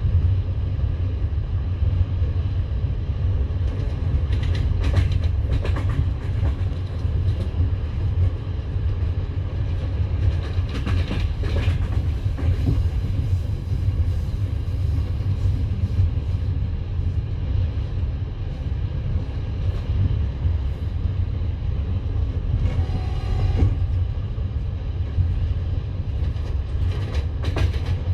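Passenger train carriage running on the track, heard from inside the coach: a steady low rumble with the wheels clattering over the rail joints in occasional clusters of clicks.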